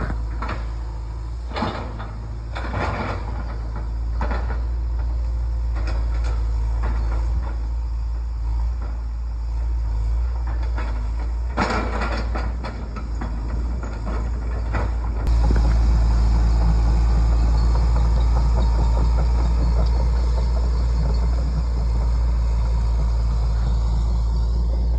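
John Deere 120 excavator's diesel engine running steadily, with scattered clanks and knocks during the first half. About fifteen seconds in, the engine gets louder and stays that way.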